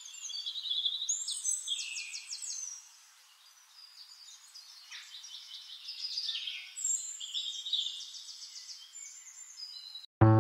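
Wild birds singing and chirping in quick high trills of rapidly repeated notes, with a short lull about three seconds in. Piano music cuts in at the very end.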